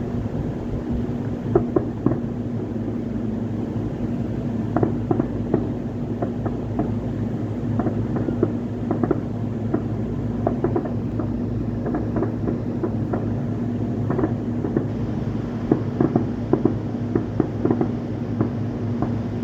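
Irregular popping and crackling of distant fireworks, many quick sharp pops at uneven intervals, over a steady low hum.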